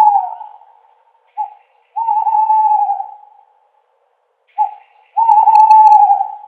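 An owl hooting: a hoot fading away at the start, then twice a short note followed by a long drawn-out hoot.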